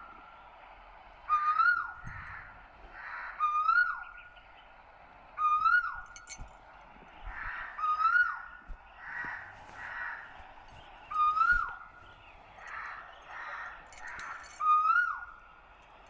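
Birds calling: a repeated whistled call that rises and then drops sharply, roughly every two seconds, mixed with harsher, rasping calls.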